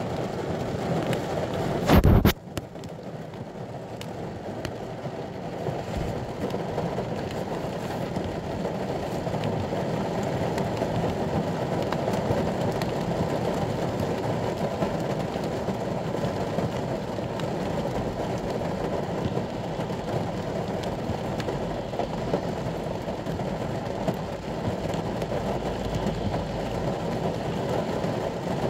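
Rain falling steadily on the roof of a ute, heard from inside the cab, with one short, loud crack about two seconds in.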